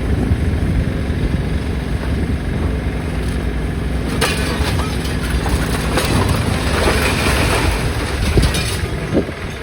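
A large engine running steadily, with irregular bursts of clattering noise over it.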